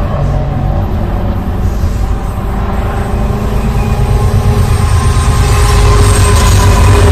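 Double-stack container freight train rolling past: a steady low rumble of wagons on the rails, growing louder over the last few seconds.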